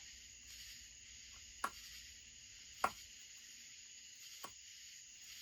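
Three sharp clicks of small hand tools being picked up and set down, the middle one loudest, over a steady high-pitched background hum.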